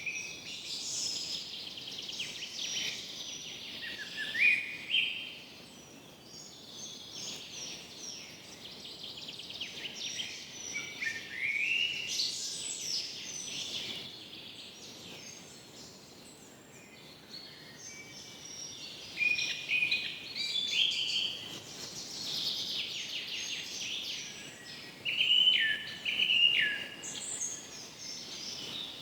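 Several songbirds singing in a forest: overlapping chirps, trills and short rising and falling whistled phrases, coming in clusters, over a faint steady background hiss.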